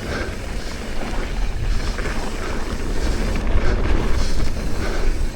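Wind buffeting the camera microphone on a mountain bike riding a dirt trail at speed, a heavy rumbling rush with faint knocks from the trail underneath; it grows louder over the last couple of seconds.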